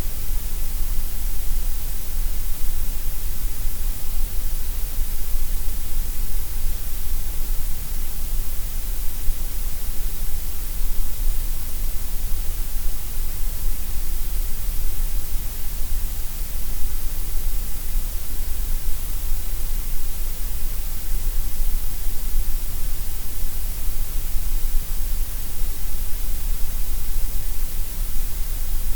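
Steady gray noise: an even, unchanging hiss with a strong deep rumble underneath, thinner in the middle range.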